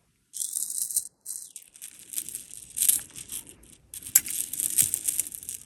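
Small pieces of jewelry being handled and sorted, clinking and rattling with crinkly rustling, and one sharp click about four seconds in.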